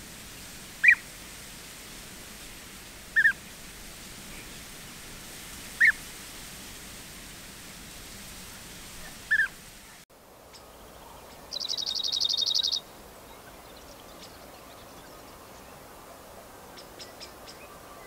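Wild birds calling. First a short, sharp high call repeated four times, roughly every three seconds. Then a different bird gives a loud, rapid high trill lasting about a second, followed by a few faint ticking calls near the end.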